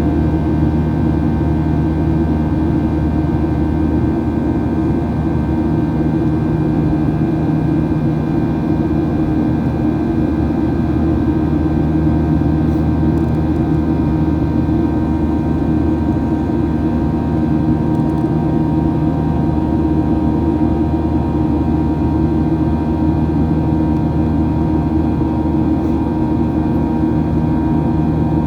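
Steady cabin drone of a Boeing 737-800 in flight: the CFM56-7B jet engines' hum, with several steady tones over a low rumble of airflow, unchanging throughout.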